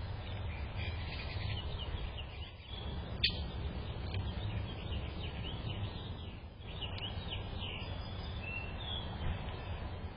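Several small birds chirping repeatedly in short, high notes over a steady low rumble, with one sharp tick about three seconds in.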